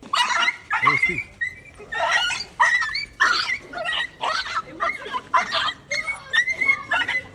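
Small dog yapping, short high-pitched barks and yips repeating about twice a second.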